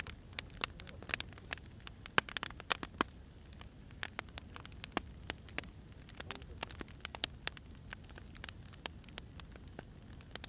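Burning firewood crackling, with irregular sharp snaps and pops of varying loudness over a low, steady rumble.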